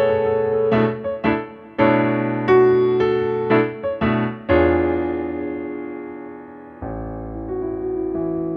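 Solo piano playing a gentle piece, with chords struck every half second or so. About four and a half seconds in, a chord is left ringing and fades. A softer, lower chord comes in near the end and is held.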